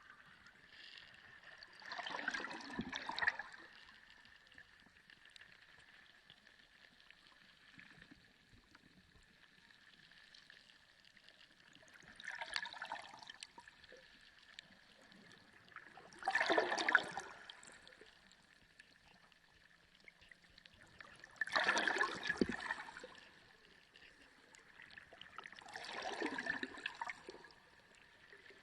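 Sea water gurgling and sloshing in five separate surges a few seconds apart, each swelling and fading within a second or two. A faint steady high tone runs underneath.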